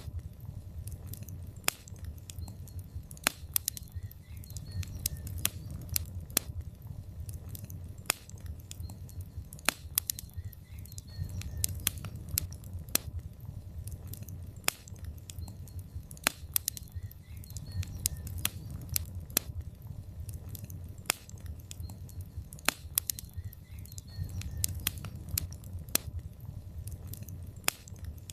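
Wood logs burning in a fireplace: irregular sharp crackles and pops, several a second, over a low rumble of flame that swells and eases every few seconds.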